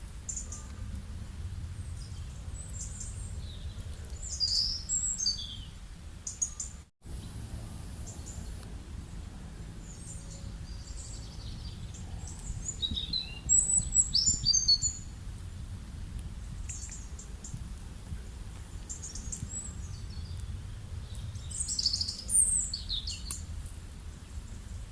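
Birds chirping and trilling in short high calls, loudest in bursts about a quarter, halfway and near the end, over a steady low rumble of rural background noise. The sound drops out briefly about seven seconds in.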